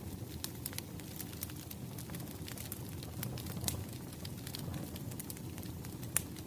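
Wood fire crackling: a steady low rumble with irregular sharp pops and snaps, the loudest pop about six seconds in.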